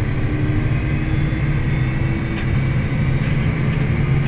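A farm vehicle's engine running steadily as it pulls an empty grain wagon: a low, even drone.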